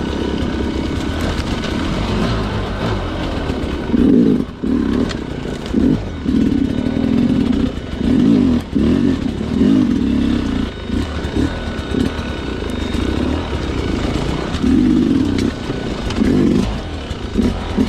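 Sherco two-stroke enduro dirt bike engine under riding load, at first running steadily, then from about four seconds in given a string of short throttle bursts roughly a second apart, the revs rising and dropping with each one.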